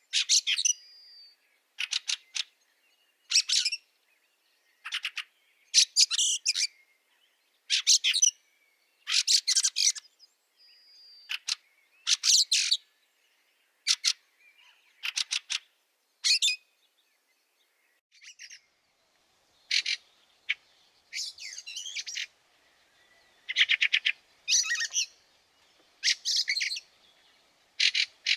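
Fieldfare calls: harsh, rasping chattering notes given as short bursts, roughly one a second, with a brief thin whistle now and then.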